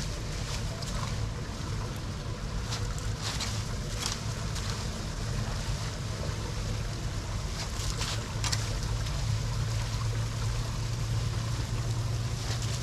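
Floodwater draining steadily, a low rushing rumble with a few short, sharper splashes on top, a little louder from about two-thirds of the way in.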